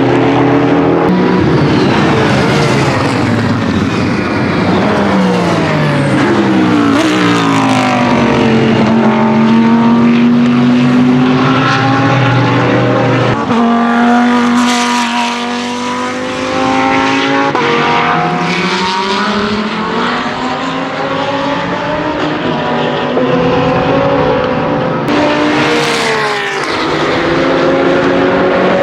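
GT3 race car engines at racing speed, the Lamborghini Huracan GT3 Evo's V10 among them. The revs rise and fall through gear changes, and several engine notes overlap as cars pass.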